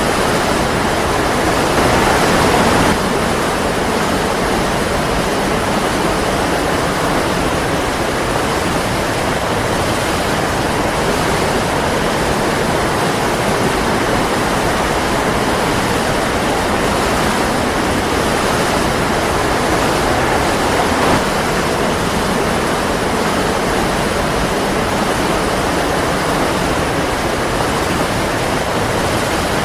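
Waterfall: a steady, dense rush of falling water, with a brief swell about two seconds in.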